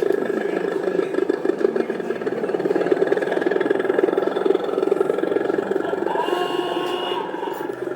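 Model train running on a layout: a small electric motor and wheels on track making a steady, fast whirring rattle. About six seconds in, a few short steady tones start over it.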